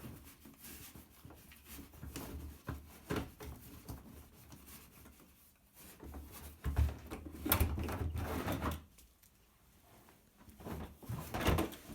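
A horse nosing and pushing at an empty lidded feed container, its lid and sides knocking and rubbing in irregular clunks, busiest about seven to nine seconds in, with another flurry near the end.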